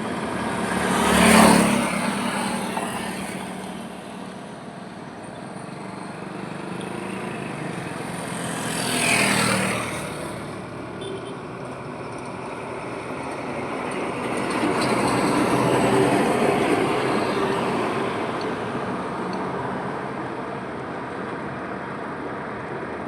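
Highway traffic: vehicles passing close by with a whoosh of tyres and engine, one about a second in and another about nine seconds in, then a slower, longer swell as a heavier vehicle goes by, over a steady road noise.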